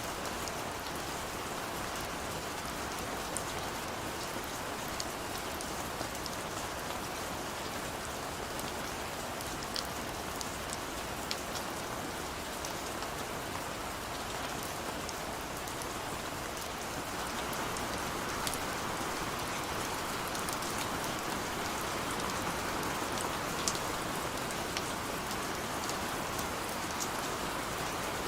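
Steady rain, an even hiss with scattered sharp drip ticks, picking up slightly about two-thirds of the way through.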